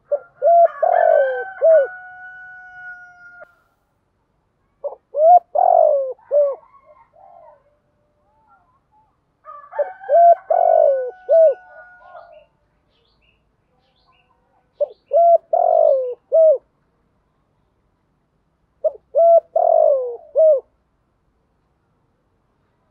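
Spotted dove cooing: five short phrases of a few hollow coo notes each, repeated about every four to five seconds, the kind of call used as a lure to draw wild doves. A thin steady tone hangs after the first and third phrases.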